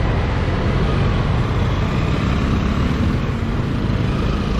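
Motorcycle engine running steadily at riding speed, with the rush of wind and road over the microphone.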